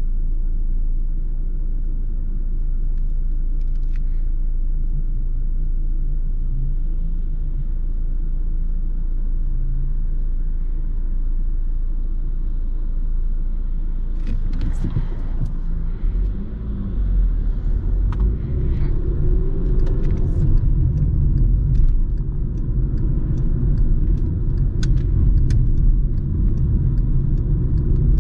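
Steady low rumble of a truck assembly line, with scattered sharp clicks and clanks from about halfway in, when the rumble also grows heavier and louder.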